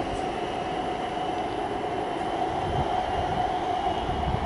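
Train at the station: a steady high whine over a low rumble.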